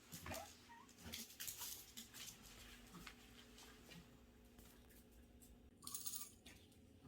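Kittens moving about: faint scuffling with light taps and clicks, and a brief rustle about six seconds in.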